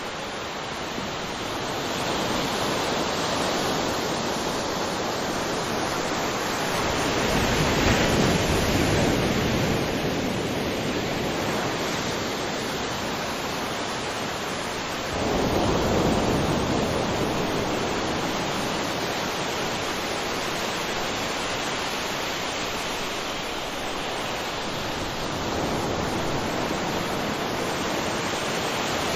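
Waterfall: a steady rush of falling water, swelling louder and deeper about eight seconds in and again from about fifteen seconds in.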